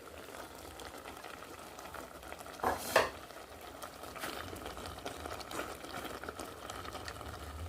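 Home-made lemon, sugar and herb syrup cooking in a pot on the fire, a steady bubbling sizzle. A sharp knock about three seconds in.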